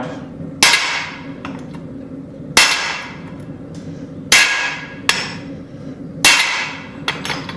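Hand hammer striking a handled punch to drive the eye through a hot steel hammer head on the anvil: four heavy blows about two seconds apart, each ringing briefly, with a few lighter taps between.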